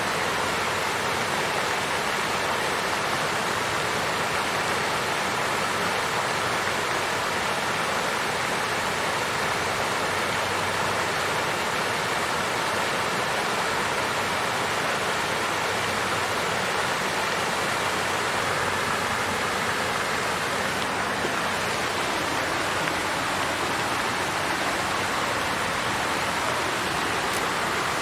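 Water fountain flowing: a steady, even splashing rush of falling water.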